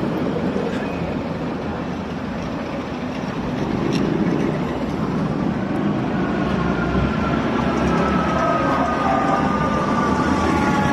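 Engines of vintage military vehicles running as they pass. About six seconds in a high whine joins them and slowly falls in pitch.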